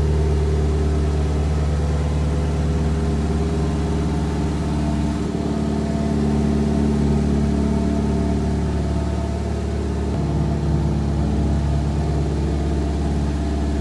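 Honda Civic Mugen's four-cylinder engine idling steadily after a cold start. The idle shifts slightly in pitch about five seconds in and again about ten seconds in.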